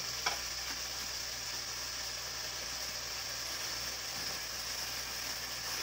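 Steady, low sizzle of food frying in oil in a metal kadai over a wood fire, with one light knock about a third of a second in as firewood is set into the stove.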